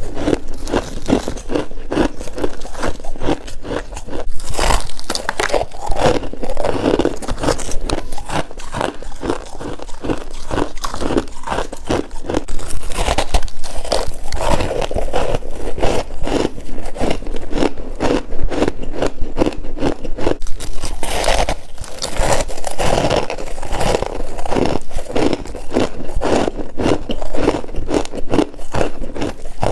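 Freezer frost being bitten and chewed close to the microphone, a continuous run of crisp, crackly crunches.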